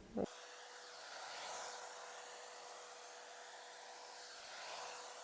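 Agaro hot-air blow brush running: a steady airy hiss with a constant motor hum, swelling slightly twice.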